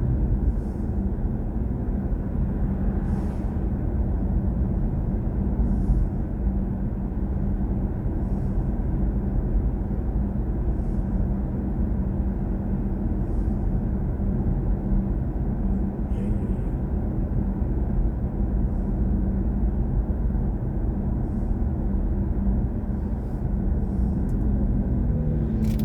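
Steady low rumble of tyre and road noise inside the cabin of a BMW i4 M50 electric car while driving, with no engine note.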